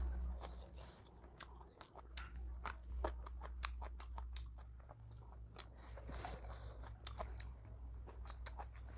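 Close-up chewing and crunching of food: an irregular string of sharp crunches and mouth clicks.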